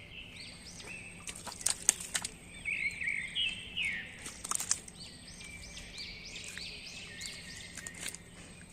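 Birds chirping: many short, arched chirps repeated in quick series, with a few sharp clicks about two seconds in and again around the middle.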